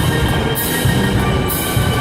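An indoor winds ensemble with percussion playing: held wind chords over pulsing low drum hits, with a high hissing wash recurring about once a second.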